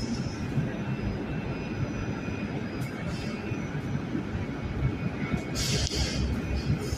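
Heavy machinery running with a steady low rumble, with a short hiss about three seconds in and a louder hiss near six seconds.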